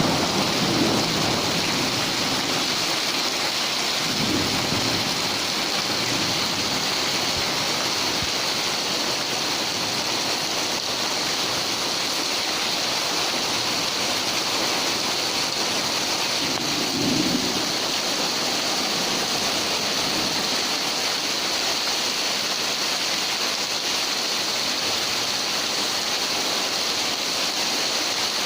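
Heavy tropical downpour hissing steadily, with thunder rumbling three times: near the start, about four seconds in, and again about seventeen seconds in.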